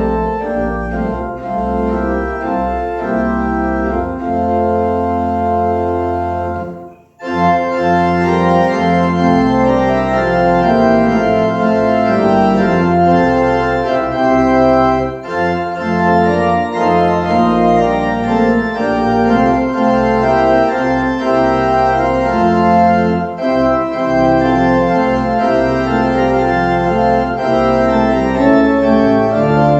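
Church organ playing sustained chords over held bass notes, offertory music during the service; it stops briefly about seven seconds in, then resumes.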